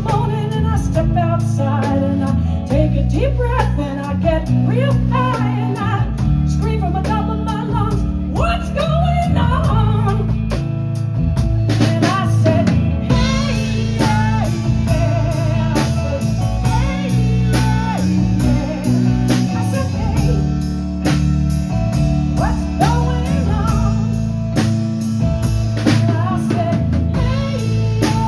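A live band playing a blues-style number: drum kit keeping a steady beat under bass and guitar, with a bending melodic lead line over the top.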